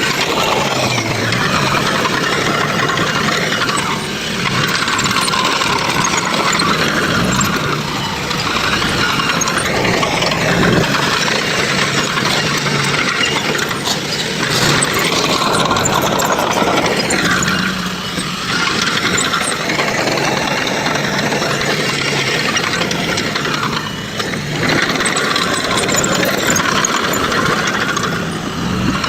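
Heavy diesel construction machinery engine running under load, loud and steady, easing off briefly a few times.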